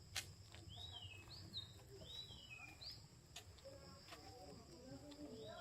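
Faint birdsong: a series of short, downward-slurred whistled notes repeating about once a second, over a steady high insect drone. A sharp click comes just after the start.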